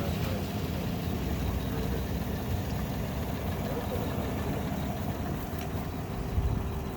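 A vehicle engine idling steadily, during a jump-start of a car with a dead battery.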